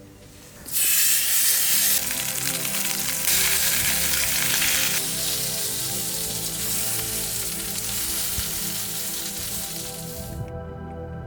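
Meat sizzling on a hot iron griddle, starting about a second in, louder in two spells and cutting off suddenly near the end, over background music.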